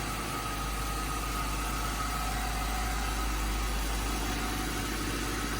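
Ford Thunderbird engine idling steadily, still warming up after a cold start.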